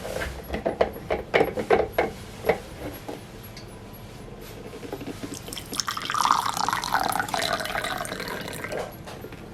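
Water pouring and dripping, after a quick run of sharp knocks and clinks in the first two or three seconds.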